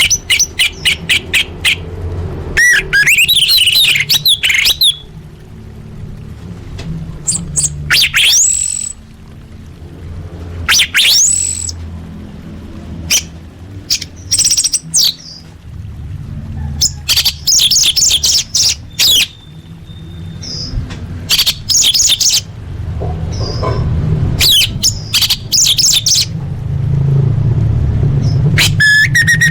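Orange-headed thrush (anis merah) singing a varied song of short, separate phrases: a quick run of ticks, rising whistles and scratchy trills, with pauses between them. A steady low hum runs underneath.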